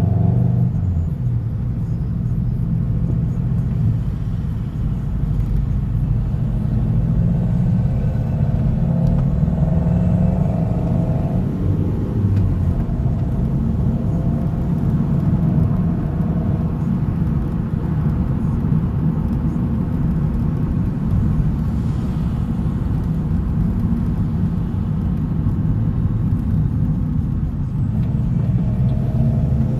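A car driving along with a steady low rumble of engine and road noise. The engine note shifts a little between about 6 and 12 seconds in.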